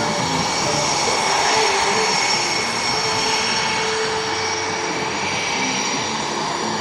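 Small jet aircraft flying an aerobatic display: a steady jet roar with a high whine, holding fairly even in loudness.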